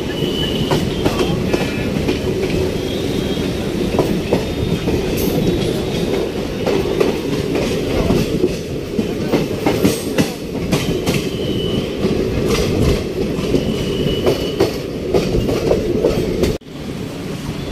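Indian Railways ICF passenger coach running at speed, heard at its open door: a steady rumble and rush of air, with the clickety-clack of the wheels over rail joints and short high squeals now and then. The sound drops out suddenly for a moment near the end.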